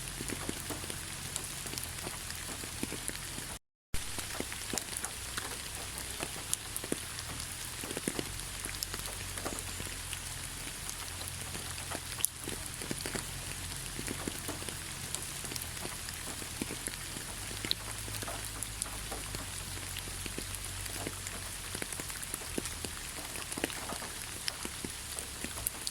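Steady rainfall with many scattered individual drops striking a surface. The sound drops out completely for a split second just under four seconds in.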